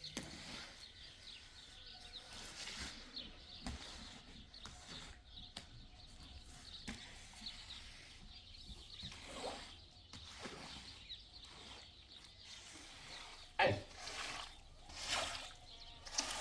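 Outdoor ambience with faint bird chirps and scattered small knocks, and one sharp knock near the end.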